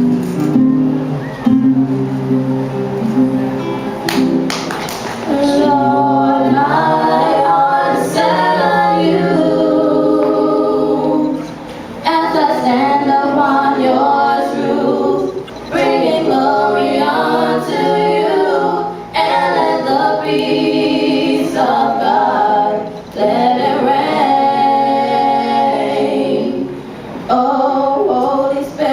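Vocal group singing a gospel song in harmony. For the first few seconds a chord is held, then the sung phrases begin with several voices together.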